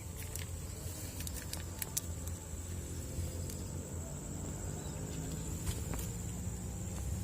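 Outdoor ambience: a steady low rumble under a thin, steady high-pitched tone, with scattered small clicks and rustles.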